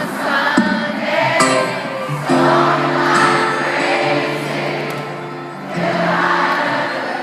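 Live concert music played loud through a large venue's sound system, with sustained chords and many voices, the crowd singing along.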